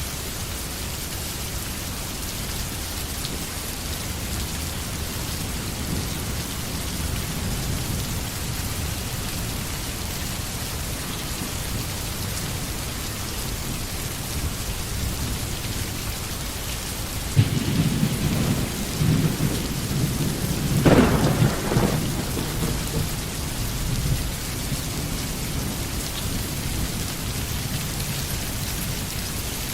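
Steady rain falling, with a roll of thunder that breaks suddenly a little past halfway, rises to a sharper clap a few seconds later and rumbles away.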